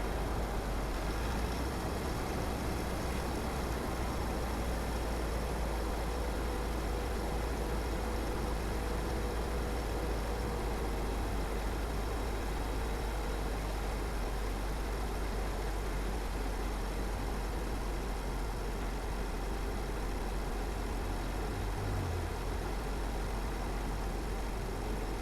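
A car's engine and tyres on the road while driving, a steady low rumble with an even hiss above it.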